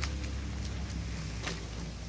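Ford truck engine running steadily with a low drone while it pulls logs, with a few sharp clicks over it, the clearest about one and a half seconds in.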